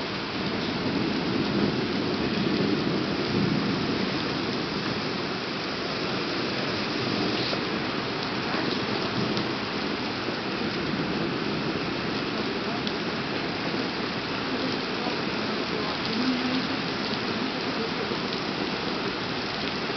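Heavy thunderstorm rain pouring steadily onto paving, parked cars and an awning, swelling a little louder for a few seconds about a second in.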